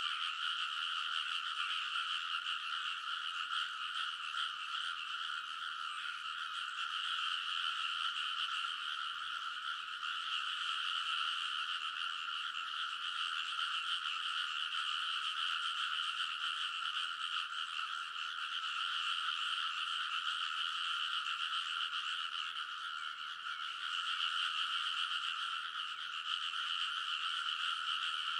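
A dense chorus of many frogs calling at once, a continuous wall of croaking with no gaps, easing off a little about 23 seconds in before filling back out.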